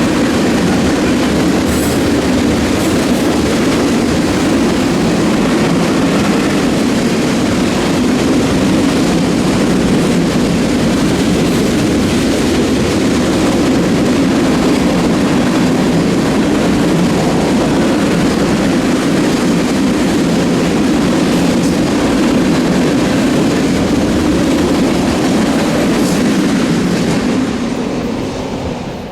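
Train cars rolling steadily past on the rails, a loud continuous rumble of wheels on track that fades over the last second or two.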